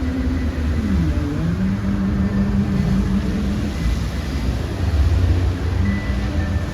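Steady low outdoor rumble mixed with faint held musical notes from the fountain show's loudspeakers.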